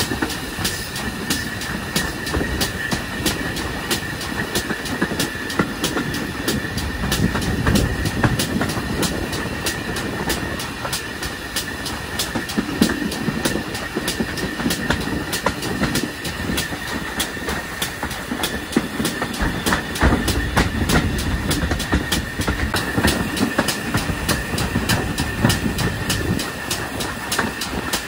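Train hauled by a pannier tank locomotive running along the line: a steady rumble with frequent clicks of the wheels over the rail joints, and a steady high-pitched squeal.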